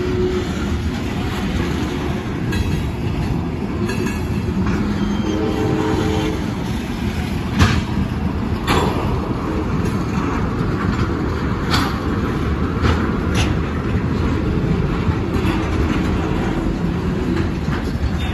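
CSX train rolling past: a steady rumble of wheels on the rails with a few sharp clacks scattered through it.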